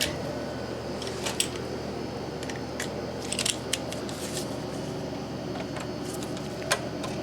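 Scattered light metallic clicks and taps of hand tools and fittings being handled while an oil burner's flare-nut fitting is put back together, over a steady low hum.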